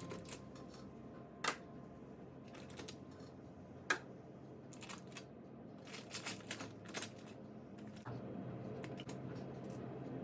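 Small fridge magnets being handled, clicking and clacking against one another and hard surfaces. Scattered single clicks, a louder one about a second and a half in and another near four seconds, and a quick run of clacks around six to seven seconds in.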